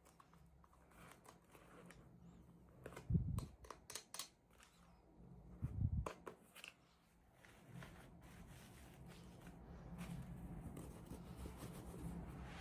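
Toy packaging being handled and opened: scattered small clicks and rustles, with a couple of soft low thumps, and a faint steady hum under the later part.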